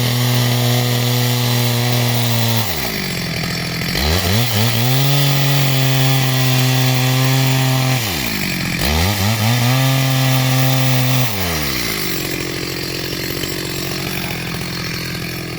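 Two-stroke chainsaw held at full throttle cutting through timber. The engine note falls away and climbs back twice as the throttle is let off and opened again, then drops to a lower, rough idle about eleven seconds in.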